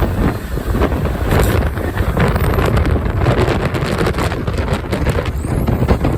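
Strong wind buffeting the microphone, with an off-road vehicle's engine running underneath.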